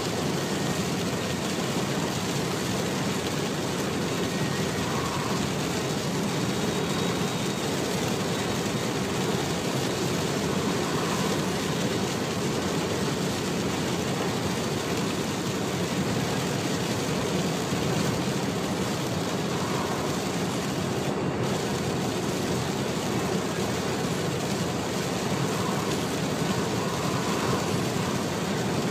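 Steady noise of a car driving on a motorway in heavy rain: rain, tyres on the wet road and engine drone blended into an even rush, with no sudden sounds.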